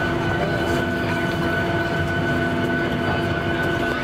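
Steady cabin noise inside a Boeing 737-800 on the ground after landing: its CFM56-7B engines at idle give a steady whine over a low rumble.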